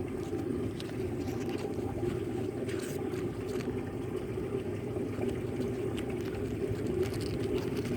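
Strong wind buffeting the microphone, a steady low rumble with a few faint ticks.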